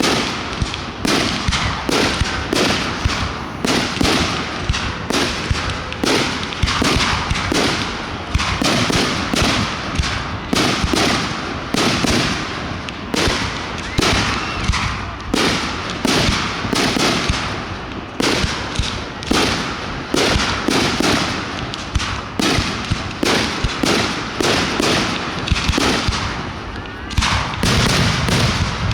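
Aerial fireworks going off in a rapid, unbroken barrage: several sharp bangs a second, one close on the next.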